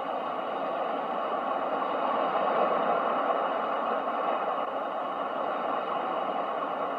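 Steady rush of ocean surf, swelling gently to a peak about two to three seconds in and then easing off.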